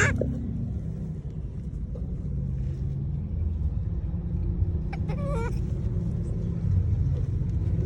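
A monkey calling: two short pitched calls, one right at the start and another about five seconds in, over a steady low rumble.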